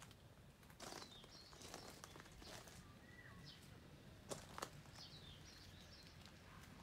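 Quiet outdoor ambience with faint, scattered bird chirps and a few soft clicks, the sharpest two close together a little past the middle.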